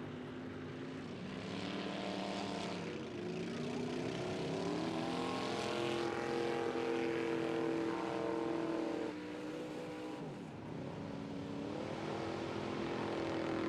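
Race truck's 448 stroker V8 running hard under load, its pitch climbing, holding high, then falling and rising again as the driver works the throttle. The engine drops off sharply about ten seconds in, then winds back up near the end.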